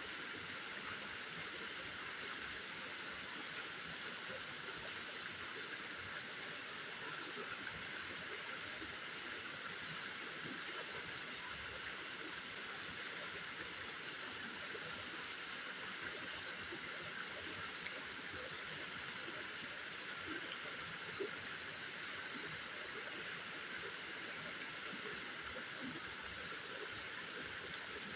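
Steady hiss of water outdoors with faint scattered ticks, even throughout.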